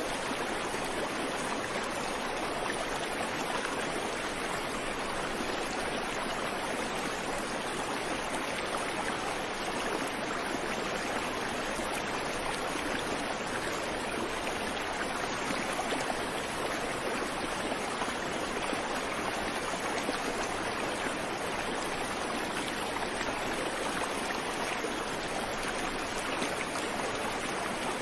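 Creek water flowing and babbling over rocks, a steady rush without birdsong.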